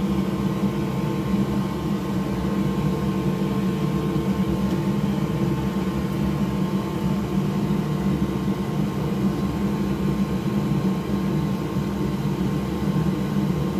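Steady low mechanical hum of a fan-driven machine running at constant speed, with a faint high steady tone above it.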